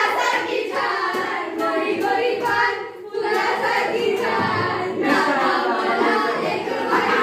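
A group of young voices singing together, with a short pause about three seconds in.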